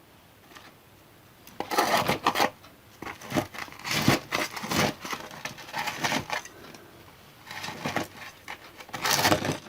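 Dry potting soil being scraped and crumbled away from a bonsai's root ball: irregular scratching and rustling, starting about a second and a half in.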